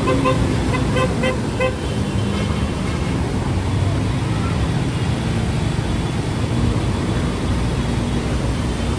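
Road traffic with vehicle engines running, and a vehicle horn sounding a string of short toots in the first two seconds.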